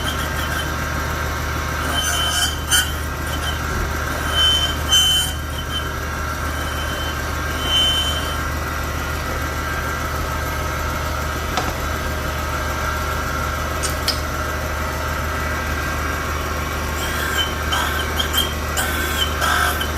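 Connecting-rod cap cutter running with a steady machine hum while it cuts the rod caps' parting faces. Short high squeaks come about two, five and eight seconds in, and a run of them near the end.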